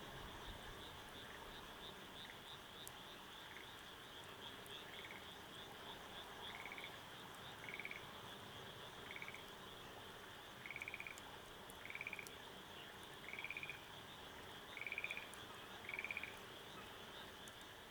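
A frog calling in short pulsed trills about once every second and a bit, getting louder toward the end, over a steady high-pitched chirping of insects.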